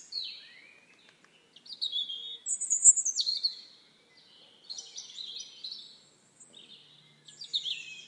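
Songbirds chirping and singing in a series of short, high phrases with brief lulls between them.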